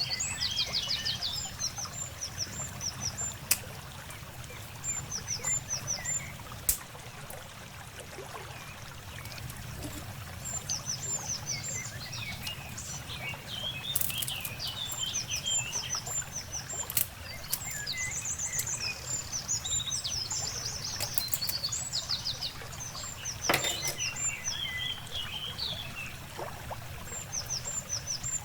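Birds chirping and twittering in short, high, repeated phrases, over a steady low hum, with a few sharp clicks.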